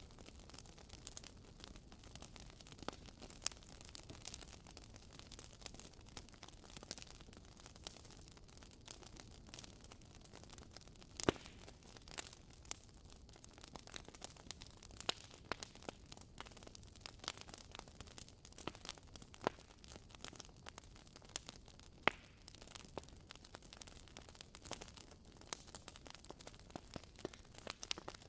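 Wood fire crackling in a fireplace: irregular sharp pops and snaps over a low steady hiss, with a few louder pops about a third and three quarters of the way in.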